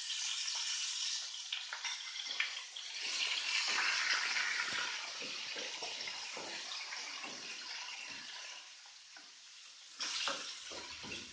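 Blended chili spice paste sizzling as it hits hot frying oil in a wok and is sautéed, stirred with a metal spoon. The sizzle starts suddenly, grows for a few seconds, then dies down, and flares up again briefly near the end.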